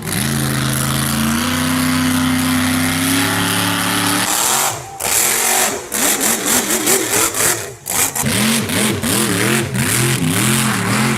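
Mud truck's engine held at high, steady revs for about four seconds, stepping up once, then dropping away; after a short gap it revs up and down again and again.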